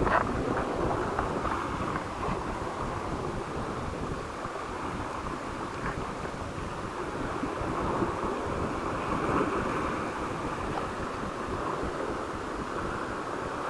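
Sea waves washing, with wind buffeting the microphone: a steady rushing noise with a few faint clicks.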